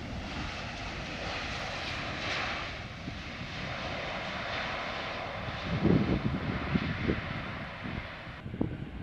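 A passing airliner's engines: a steady rushing noise that swells about two seconds in and drops away sharply near the end. Gusts of wind buffet the microphone, loudest about six seconds in.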